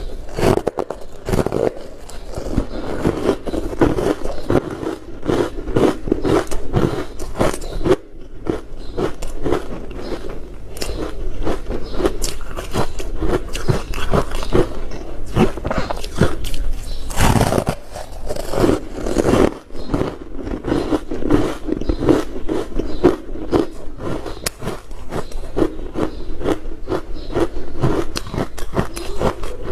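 A person biting and chewing ice close to the microphone: continuous rapid, dense crunching crackles, with a couple of brief pauses between bites.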